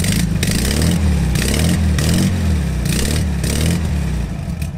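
1971 VW Super Beetle's air-cooled flat-four engine revved up and down several times, run with its chrome exhaust tips removed and the mufflers still on. It gives a loud, throaty boxer note without the Beetle's usual chirp.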